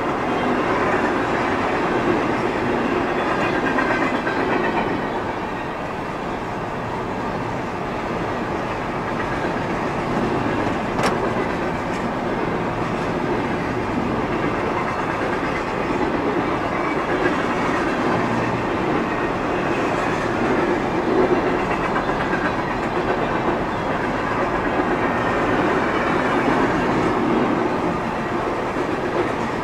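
CSX freight train's cars rolling past, a steady rumble of steel wheels on rail.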